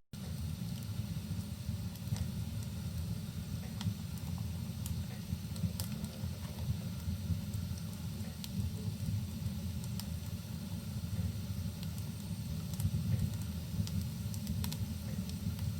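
Fireplace fire crackling, with scattered sharp pops over a steady low rumbling noise, mixed with rain in a cabin ambience loop. It drops out for a split second at the very start.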